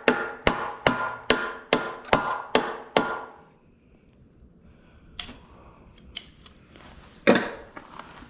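A stuck lawn mower cap, most likely the gas cap, being tapped with a metal tool to break it loose: eight quick metallic taps, about two and a half a second, each with a short ring. They stop about three seconds in, followed by a couple of light clicks and one sharper knock near the end.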